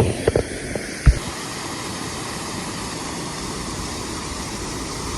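Steady rush of flowing river water, with a few sharp knocks and clicks in the first second or so.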